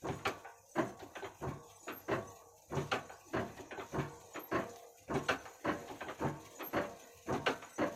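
Old Ruston & Hornsby diesel engine running slowly, a steady beat of sharp knocks about two a second.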